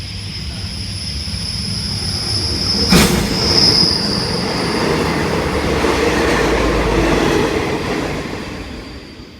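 Passenger train running through a station: steady low rumble of the wheels on the rails with a steady high-pitched wheel squeal, one sharp clank about three seconds in, and the sound fading away near the end as the train moves off.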